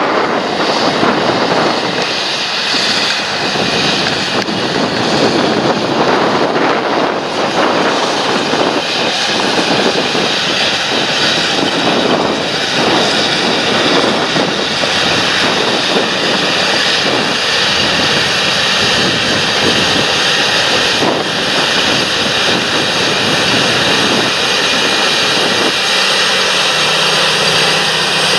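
Large John Deere farm tractor's diesel engine running steadily under load while working a field, with a thin high whine over the engine noise. A few seconds before the end, a lower steady hum comes in.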